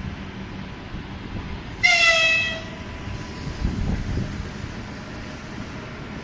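A train's horn gives one short toot about two seconds in, falling slightly in pitch, over the steady low rumble of a train on the tracks.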